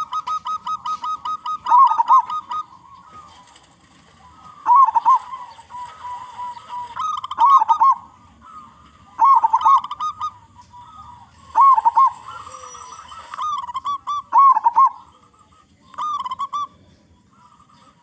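Zebra dove (perkutut) cooing: short, rolling coo phrases repeated every two to three seconds. A quick run of short, evenly spaced notes comes in the first second or so.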